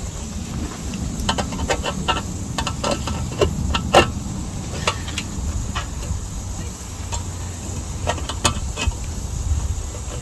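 Scattered light clicks and taps from handling a sheet-steel patch panel and hand tools, over a steady low rumble. The clicks come in a cluster in the first half, the sharpest about four seconds in, and a few more near the end.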